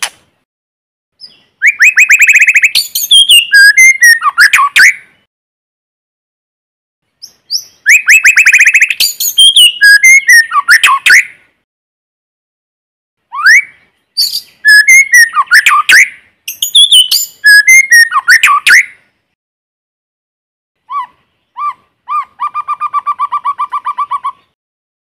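White-rumped shama singing: loud phrases of rapid, varied whistles and fast trills, four of them with short pauses between, then a quick run of evenly repeated lower notes near the end. The gaps between phrases are completely silent, with no background noise.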